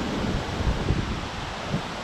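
Wind buffeting the microphone: a steady rushing noise with uneven low thumps.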